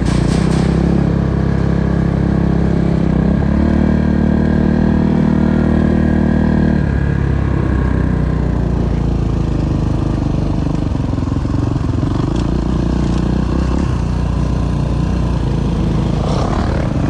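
Kawasaki KX450's four-stroke single-cylinder engine running steadily at moderate speed, then dropping to a lower, rougher running about seven seconds in.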